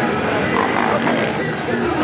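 Loud, steady din of a crowd of voices mixed with off-road motorcycle engines running.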